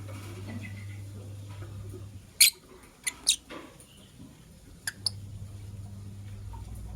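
Lovebirds giving short, sharp, high-pitched chirps. The loudest comes about two and a half seconds in, followed by a quick cluster of calls and two more near five seconds.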